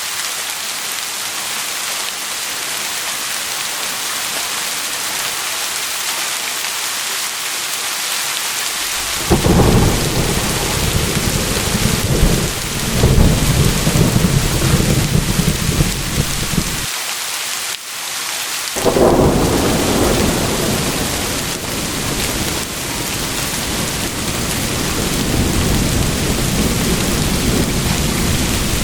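Steady heavy rain hissing, with thunder rumbling in. About nine seconds in a deep rumble begins suddenly and runs for some eight seconds before cutting off sharply. A second rumble starts about two seconds later and slowly fades under the rain.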